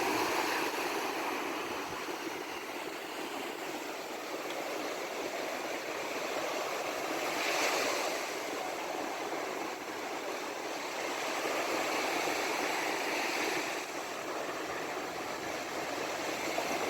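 Rough sea: waves rushing and breaking, a steady wash of water that swells and eases, loudest about halfway through.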